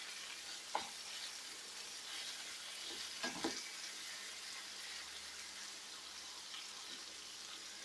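Marinated chicken pieces sizzling steadily in hot oil in a frying pan, stirred with a wooden spoon that knocks lightly against the pan a few times.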